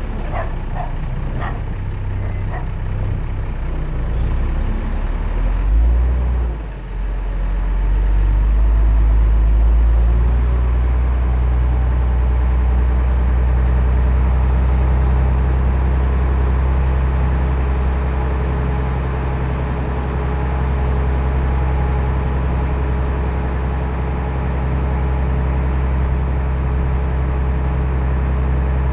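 Classic Mercedes-Benz car driving, its engine and road noise heard as a steady low drone. The level dips briefly about seven seconds in, then settles into an even note.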